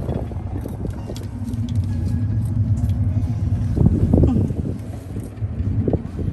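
Small motorboat underway, its engine giving a steady low rumble, with wind buffeting the microphone and a louder rough surge a little before the middle.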